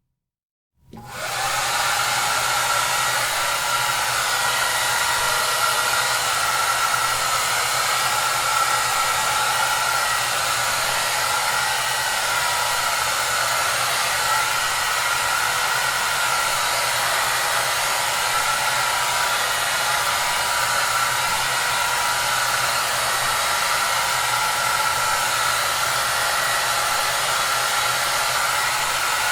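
Hair dryer starting up about a second in after a brief silence, then running steadily with a constant blowing hiss and a low hum.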